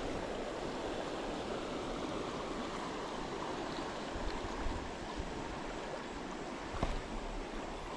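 River water rushing steadily over a shallow, fast run.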